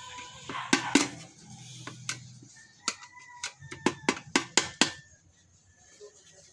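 A run of sharp metal taps, a few a second and some with a brief ring, as the locking ring of a motorcycle fuel-float sender on the fuel tank is knocked round to loosen it. The taps thin out and get quieter in the last second or so.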